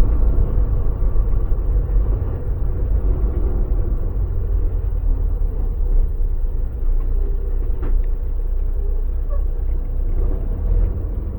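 Volvo VNL semi truck on the move: a steady low engine drone and road rumble.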